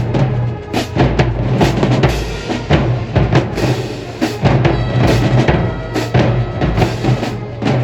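High school marching band playing, with a drumline beating bass and snare drums in heavy repeated hits over low sustained horn tones.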